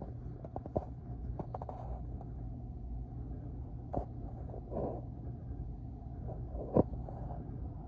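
Low steady rumble of a freight train heard from indoors through a closed window, with a few clicks and knocks from the camera being handled, the sharpest near the end.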